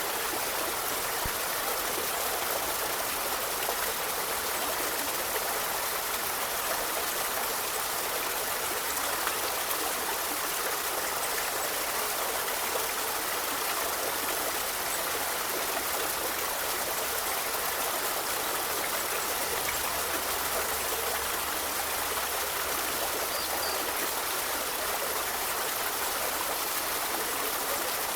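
A forest river flowing, a steady, even sound of running water with no breaks.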